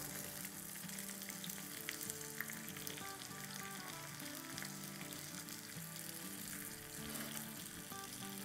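Small ground-chicken patties sizzling steadily in shallow oil in a nonstick frying pan, with a few faint crackles, as they are turned with a spatula. Quiet background music plays under the sizzle.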